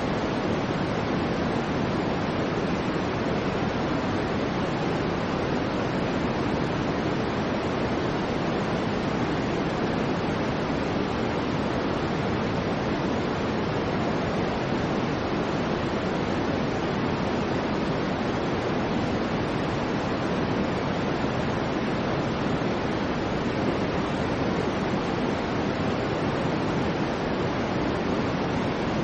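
Soft, steady noise for baby sleep, even and unchanging, heavier in the low and middle range than hiss.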